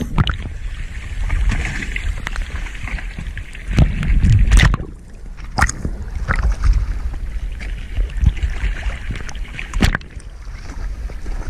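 Rumbling wind and water noise on the camera's microphone, with a few sharp knocks.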